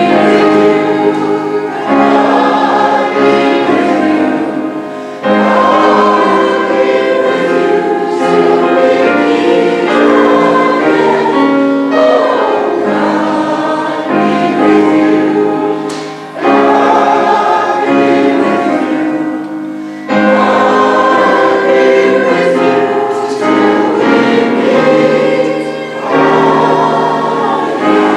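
Congregation and choir singing a hymn together in sustained phrases, with instrumental accompaniment.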